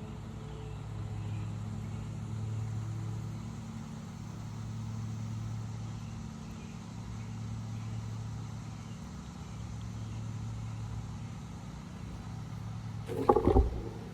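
Steady low motor-like hum that swells and fades gently, with a short loud thump near the end.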